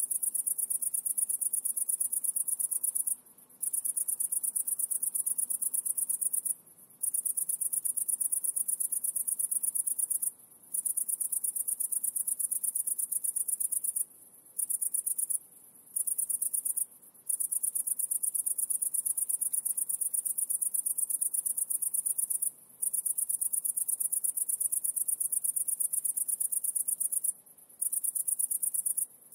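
A high-pitched insect trill: a rapid, continuous pulsing buzz that breaks off in short pauses about ten times.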